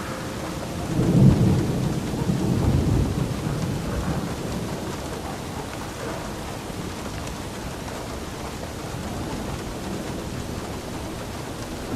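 Steady rain falling, with a roll of thunder that rumbles up about a second in and fades away over the next few seconds.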